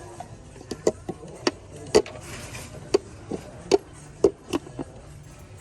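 Music box being handled, its music mechanism missing: about a dozen hard knocks and clacks at irregular intervals as it is turned over and set against things.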